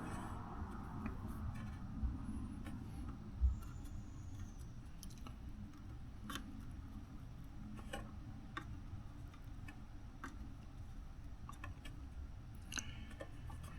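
A few light clicks and taps from resoldering joints on a circuit board, as the soldering iron and board are handled, over a steady low hum. Two soft low thumps come in the first few seconds.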